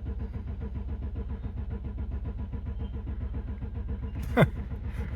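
The 2008 BMW 750i's 4.8-litre V8 is cranking on the starter without firing, in a steady fast rhythm: a crank-no-start, with the even beat the owner takes for good compression. A brief sliding sound comes about four seconds in.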